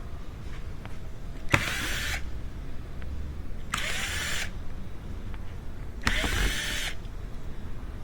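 Small cordless power driver run in three short bursts, each under a second, backing out Torx screws.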